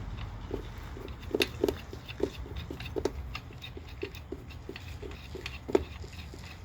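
Irregular light metallic clicks and taps of a wrench and socket as nuts are threaded back onto a car's engine-mount studs, about two or three a second with a few sharper knocks, over a low steady hum.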